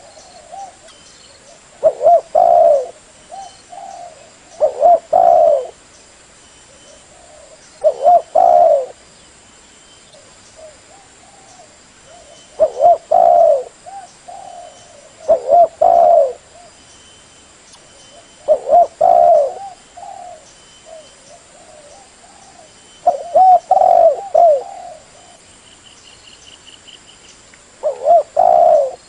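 Spotted dove cooing: a loud phrase of a few low, rolling coos repeated about eight times, every three to five seconds.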